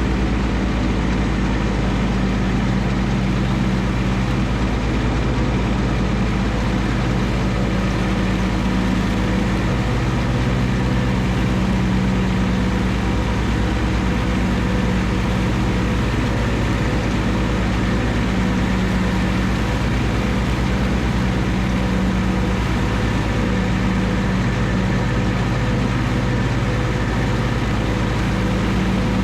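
John Deere 1025R compact tractor's three-cylinder diesel running steadily while mowing grass with the 60-inch mid-mount mower deck.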